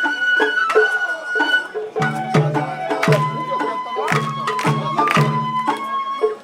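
Sawara bayashi festival music: a bamboo flute playing held, high notes over sharp drum strokes, with a lower part joining about two seconds in.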